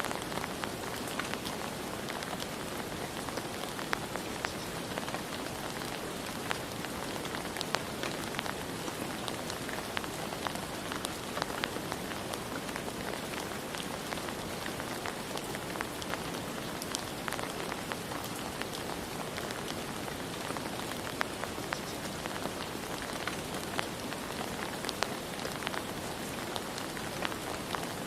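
Steady rain falling, with many individual drops ticking sharply against a surface.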